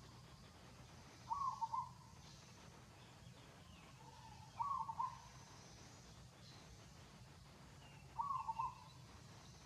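A bird calling: a short call of a few quick notes, repeated three times about every three and a half seconds, over a faint low background hum.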